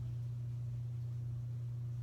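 A steady low hum with nothing else over it.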